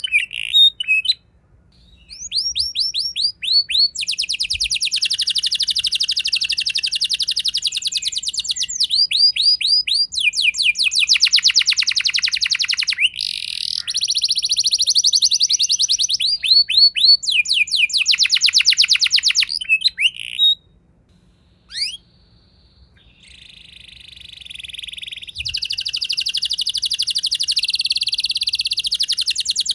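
Domestic canary singing a long rolling song: rapid trills of quickly repeated high notes, one phrase straight after another, with a short pause about a second in and another about two-thirds of the way through.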